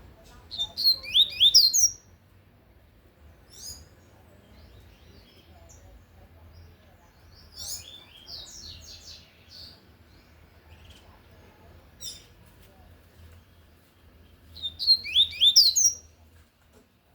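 Double-collared seedeater (coleiro) singing its tui-tui song: two loud phrases of quick, down-sliding high notes, each about a second and a half long, one near the start and one near the end, with softer notes and calls in between.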